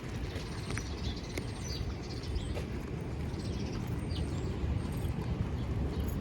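Outdoor street ambience on a rainy morning: a low rumble that slowly grows louder, with small birds chirping briefly a few times and faint footstep clicks.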